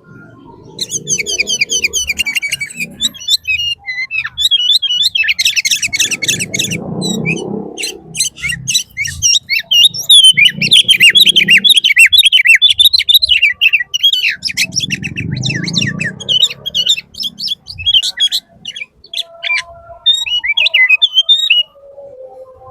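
Birds chirping rapidly and continuously, close by and loud, with stretches of low muffled noise several times.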